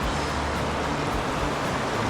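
Flowing water of a forest river rushing steadily, an even hiss.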